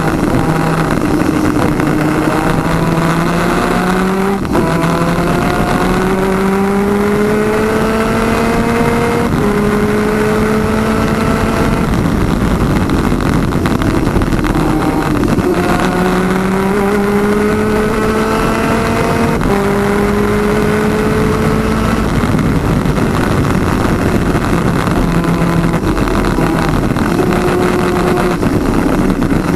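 Twin 250cc two-stroke superkart engines at racing speed. Their pitch climbs hard under acceleration, steps down at an upshift, then falls away as the driver lifts off, and this happens twice. A constant rush of wind and road noise runs underneath.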